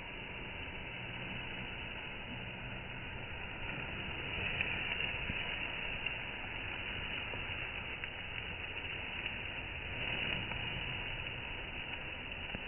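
Small battery-powered DC gear motors running steadily with a continuous whir.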